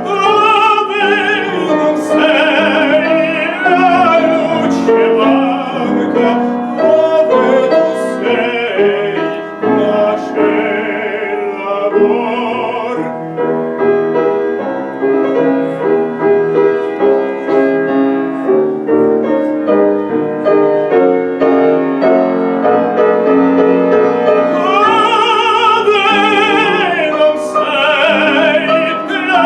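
Classical singing in Italian, in an operatic style with wide vibrato, accompanied by a piano. About halfway through, the voice stops for a piano interlude of roughly ten seconds, then comes back near the end.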